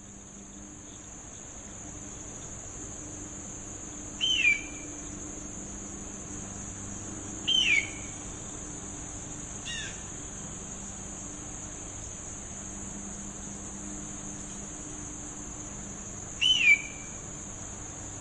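Red-tailed hawk calling three times, each call a short, loud cry that slides downward, with a fainter call between the second and third. Underneath, insects keep up a steady high-pitched drone.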